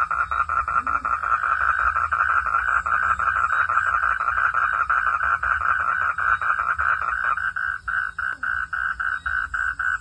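Frogs calling in a fast pulsed chorus, about five or six notes a second. About seven seconds in it thins to one caller whose notes are clearly separated.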